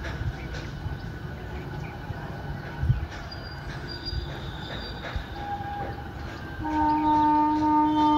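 Electric multiple-unit local train rumbling as it approaches along the track, then sounding its horn in one loud blast of about two seconds near the end.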